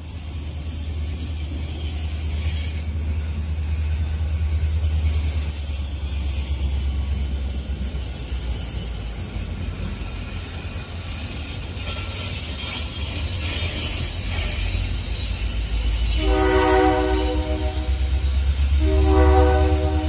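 Metra commuter train's bi-level passenger cars rolling past with a steady low rumble. Near the end a multi-note train horn sounds twice: a blast of about two seconds, then a second blast about a second later.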